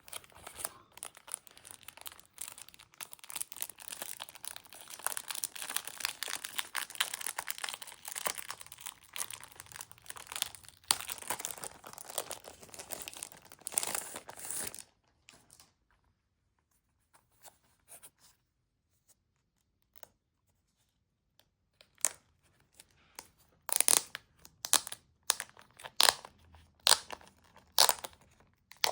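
Wrapping on a CD album being torn and crinkled off by hand, a dense run of crackling for about fifteen seconds. After a pause, a few sharp crackles and taps as the packaging is handled.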